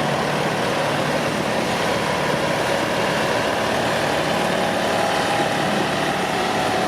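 Diesel engine of a semi-truck idling steadily close by, an even rumble with a faint steady hum.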